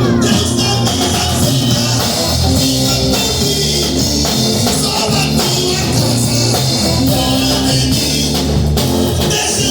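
Band music: a drum kit and guitars playing a steady, loud passage, with no clear vocal line.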